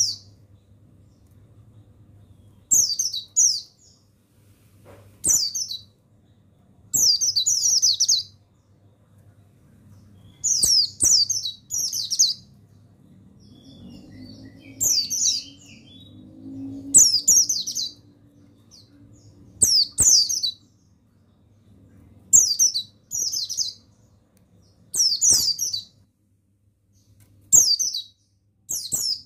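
Pleci buxtoni white-eye singing in short, loud bursts of quick high chirps, each burst about a second long, repeated every two to three seconds. A faint steady low hum runs underneath.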